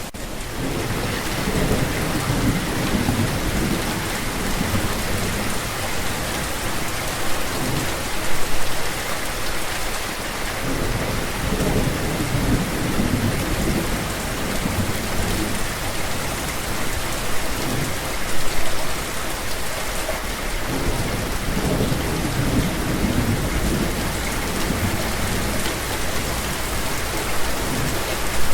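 Steady rain falling in a continuous hiss, with low rolls of thunder coming back about every ten seconds.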